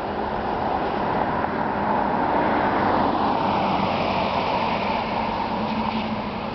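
Helsinki metro electric train running through the station: a steady rolling noise with a low hum, and a whine whose pitch shifts about halfway through.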